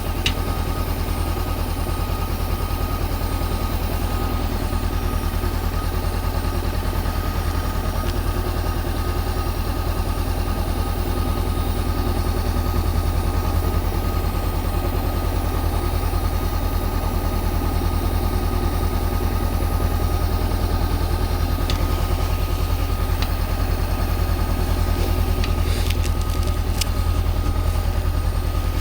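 Honda CB400X's parallel-twin engine running steadily, with a constant low pulsing and no revving, and a few faint clicks near the end.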